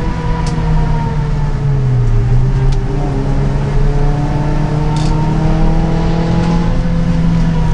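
Suzuki Swift Stage 2's four-cylinder engine heard from inside the cabin at track speed, with road noise. The engine note dips briefly about two seconds in, then climbs steadily through most of the rest as the car accelerates.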